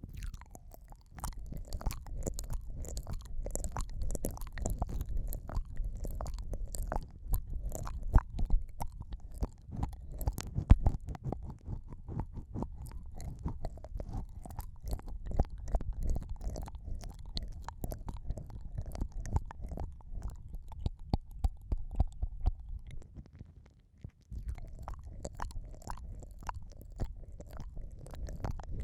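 Close-miked ASMR 'ear eating' mouth sounds: wet clicks, smacks and sucking of lips and tongue on a microphone ear, over a low muffled rumble. There is a short lull a little past two-thirds of the way through.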